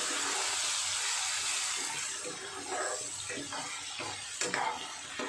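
Paste of ground green chilli, ginger and turmeric sizzling in hot oil in a metal kadai, a steady hiss. From about two seconds in, a spatula stirs and scrapes it in a few short strokes.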